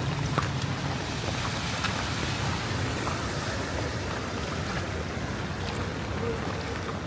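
Steady rain and rushing, sloshing water on a flooded street, with scattered small drips and splashes over a low steady hum.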